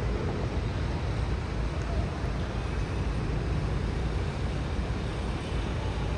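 Steady rumble of city road traffic, a continuous noise weighted to the low end with no distinct events standing out.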